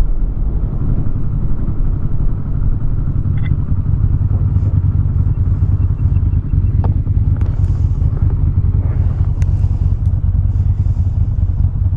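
Motorcycle engine running steadily at a constant pace.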